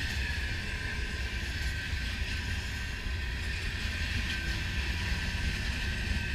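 Freight train rolling past: a steady low rumble of wheels on rail with a thin, steady high whine over it.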